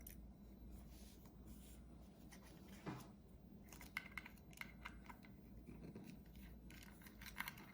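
Faint scattered ticks and scrapes of a small pentalobe screwdriver working the tiny screws of a portable hard drive's plastic case, with a slightly longer scrape about three seconds in.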